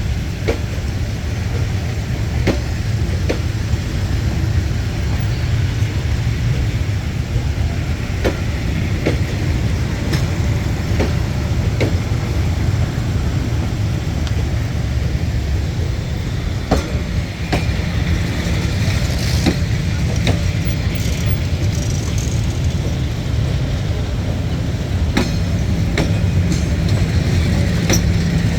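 Steady low rumble of a passing train, with scattered sharp clicks; a steady low hum joins about two-thirds of the way through.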